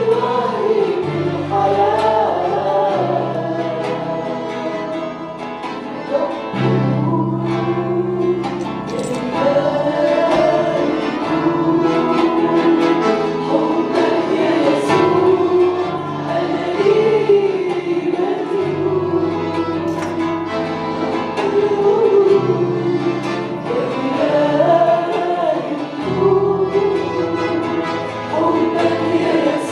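Congregational worship singing with a band: a group of voices singing a hymn over sustained bass and keyboard chords that change every few seconds.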